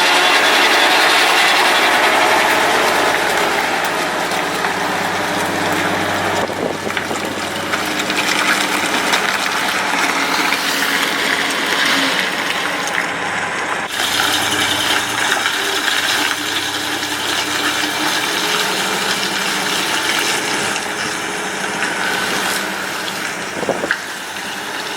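Engine of a classic military truck running steadily, with a constant mechanical clatter.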